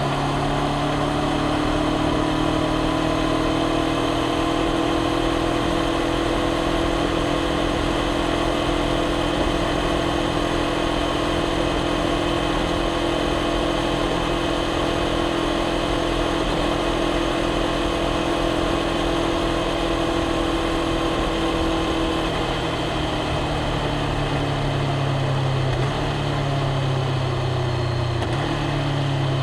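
Honda CBR500R's parallel-twin engine running while the bike rides at a steady low cruise. The engine note holds steady for most of the time, then falls away about two thirds of the way through and settles into a lower rumble as the throttle eases off.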